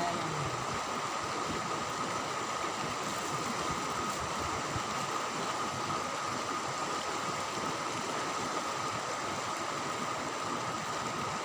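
Steady rush of flowing river water, with a constant high tone running through it.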